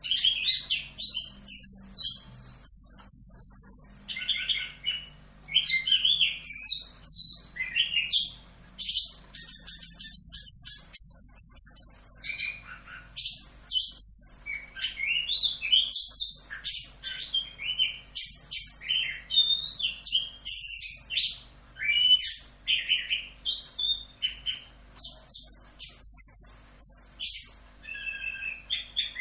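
Orange-headed thrush (anis kembang) singing a long, continuous run of rapid, varied whistled and chattering phrases, broken by only brief pauses.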